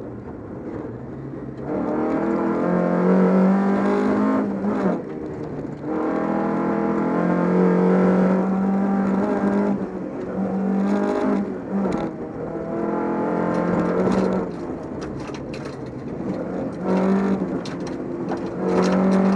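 Volvo 242 rally car's engine heard from inside the car, running hard at speed on a special stage. The engine note drops and picks up again several times as the driver lifts and changes gear.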